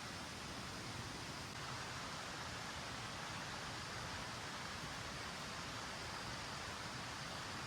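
Steady heavy rain falling, an even hiss that steps up slightly about one and a half seconds in.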